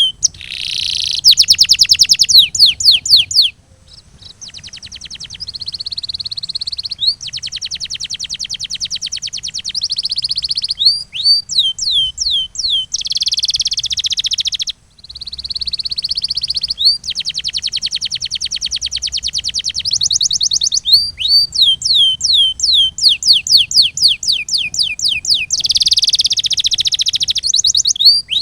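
Canary singing: phrases of quick falling whistled notes alternating with long, fast rolling trills, breaking off briefly twice.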